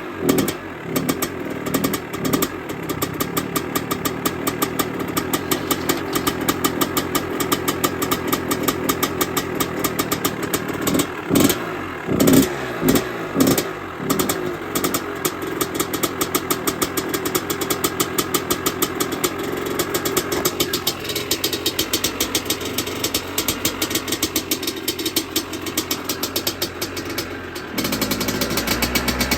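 1986 Maico GM 250 two-stroke single-cylinder dirt-bike engine running at a fast, steady idle, with sharp throttle blips near the start and several more between about eleven and fourteen seconds in.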